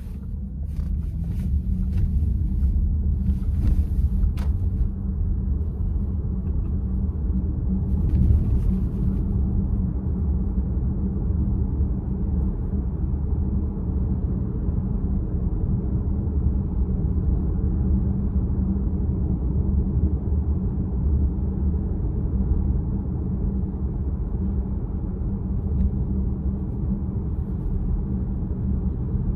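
Steady low road and tyre rumble inside the cabin of a moving VW ID.4 electric car, swelling in the first second. A few faint clicks come in the first few seconds and a brief hiss about eight seconds in.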